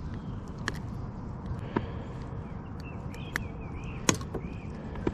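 Scattered sharp clicks and knocks of a fish and tackle being handled in a kayak, over a steady low rumble. A few faint bird chirps come in about three to four and a half seconds in.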